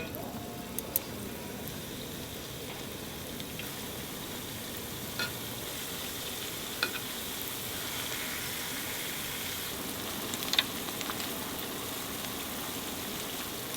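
Shrimp deep-frying in hot oil: a steady sizzle, with a few short clicks now and then.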